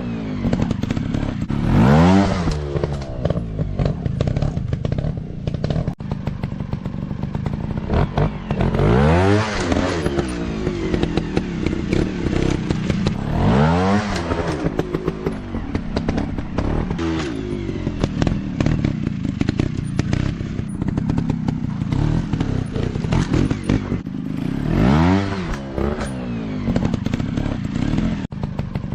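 Off-road dirt bike engine revving up in bursts several times, rising and falling in pitch, and running lower and uneven in between, with frequent knocks and rattles.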